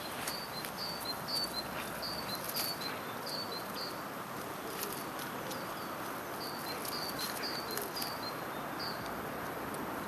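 A small songbird singing a quick, high, repeated two-note phrase in a few bursts, over a steady outdoor rustle with a few soft clicks.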